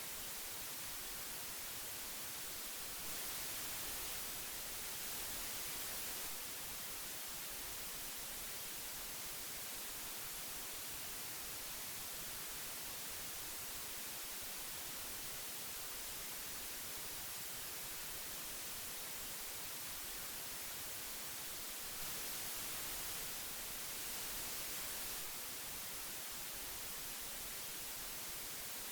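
Old magnetic tape hiss: a steady, even hiss, brightest in the treble, swelling slightly for a few seconds twice, about three seconds in and again about twenty-two seconds in.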